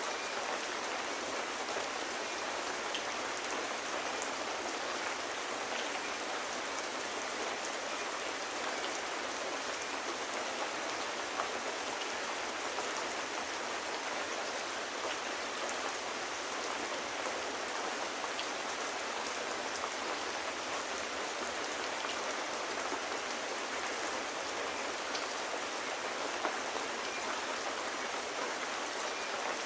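Steady rain falling: an even hiss, with a few faint scattered ticks.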